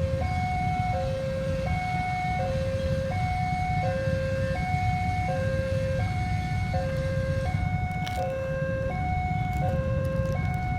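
Railway level-crossing warning alarm sounding an even two-tone alternation, low then high, about one cycle a second, over a steady low rumble.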